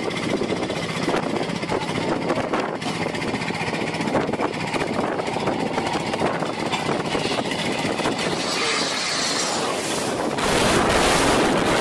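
Aircraft engine running loud and rough, with a crackling rattle and wind buffeting the microphone; it swells louder and hissier about ten seconds in.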